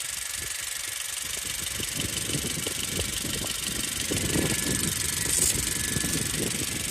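A 2017 Honda CR-V making a rapid, irregular rattling over a steady hiss, growing louder partway through; the owner is unsure whether the noise is normal.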